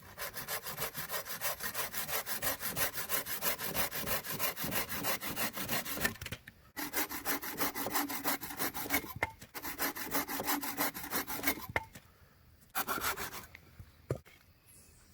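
Hand saw cutting firewood, with quick back-and-forth strokes through the wood. It pauses briefly about seven seconds in, stops near twelve seconds, and gives one short last burst of strokes.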